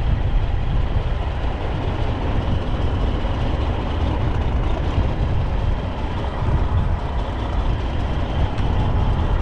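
Strong wind buffeting the microphone, with a heavy truck's diesel engine running steadily underneath.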